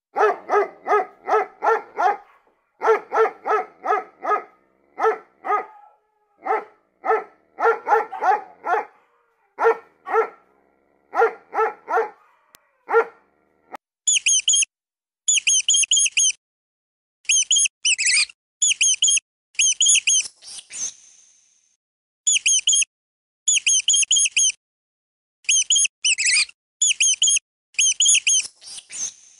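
A dog barking repeatedly in quick runs of several barks for about the first half. About halfway in, it gives way to rapid, high-pitched squeaking in short bursts from a hamster.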